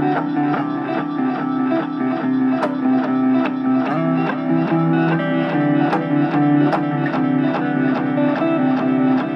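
Electric guitar, a Fender Telecaster, played through a Boss DD-3 digital delay pedal. Quick picked notes, about three a second, repeat and overlap with their echoes over sustained low notes.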